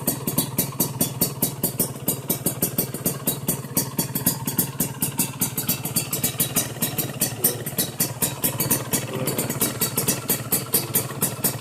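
Motorcycle idling through an aftermarket exhaust, a steady, even beat of exhaust pulses.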